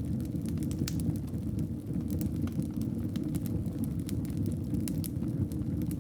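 Wood fire crackling in a fireplace: a steady low rumble of burning logs with irregular sharp pops and crackles, several a second.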